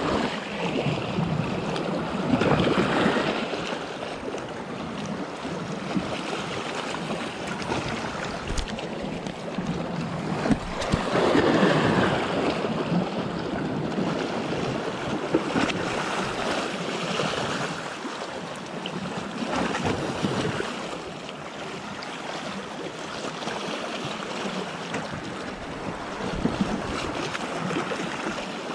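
Gulf surf washing in, the water noise swelling and falling in surges every several seconds, with wind buffeting the microphone.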